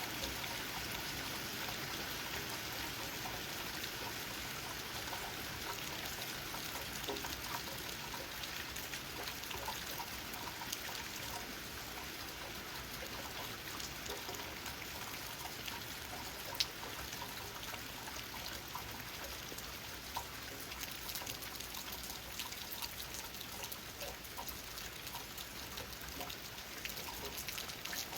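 Steady rain falling, with raindrops pattering on leaves and scattered individual drips, and one sharper drop about sixteen seconds in.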